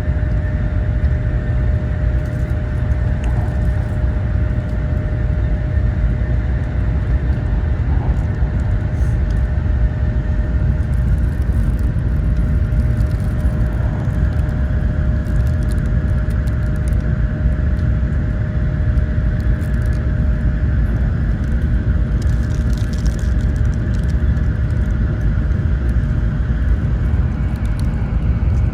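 Cabin noise of a Taiwan High Speed Rail train running: a steady, loud low rumble with a constant mid-pitched hum over it.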